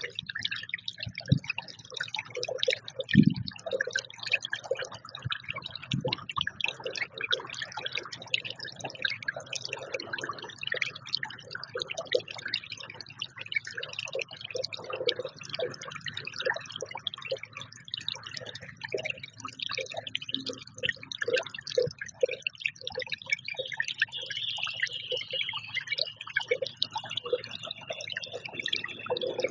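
Birds at a feeder: an irregular stream of small taps, like beaks pecking at food, over busy high-pitched bird chirping. A steady high buzz or trill comes in near the end.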